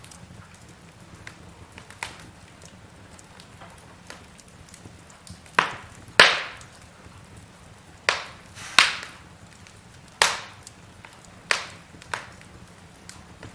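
Burning logs in a fireplace crackling: a faint steady hiss broken by sharp snapping pops every second or two, the loudest about six seconds in.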